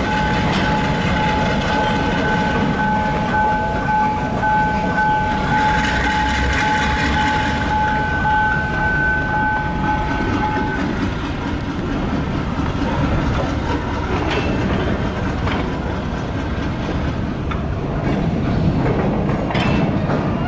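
Freight train hauled by a GE C30-7 diesel locomotive rolling slowly past: a steady rumble of steel wheels on the rails, with clanks and clicks as the flatcars pass over rail joints. A steady two-note tone sounds over it and stops about eleven seconds in.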